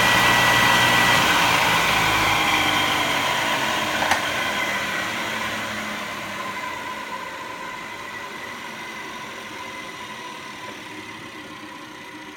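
Flywheel grinder's CBN grinding wheel running under its motor just after start-up, a steady whirring hum with a whine, growing gradually fainter. A single sharp click about four seconds in.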